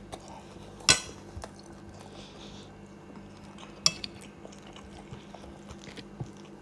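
Cutlery clinking against a plate or dish: a few sharp clinks, the loudest about a second in and another near four seconds, over a faint steady hum.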